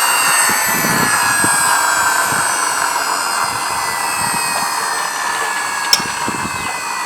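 Toy dump truck's friction-motor gears whirring after its wheels have been spun up by hand, the whine slowly falling in pitch as the flywheel winds down. One sharp click about six seconds in.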